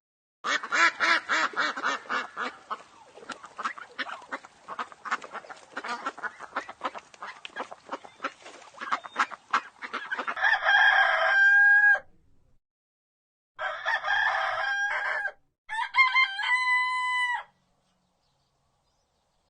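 Chickens clucking in a quick, dense run for about ten seconds, then a rooster crowing three times in long, held calls.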